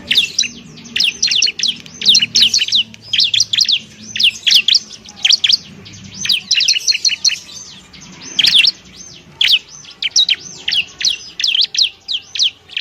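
Bar-winged prinia (ciblek) singing: phrase after phrase of quick, high, sweeping chirps, with only brief gaps between phrases.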